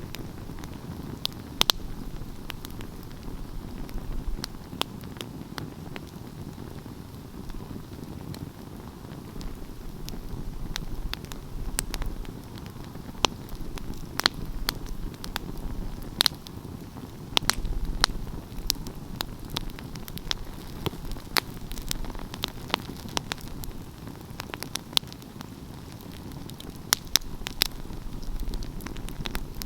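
Wood fire crackling and popping irregularly over a steady low rumble of the flames.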